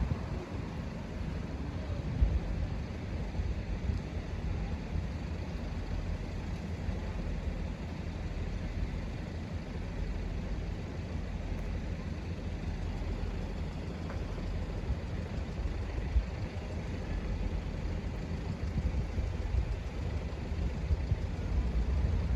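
Steady low outdoor rumble, like vehicle engines running nearby, with a few faint knocks about two and sixteen seconds in.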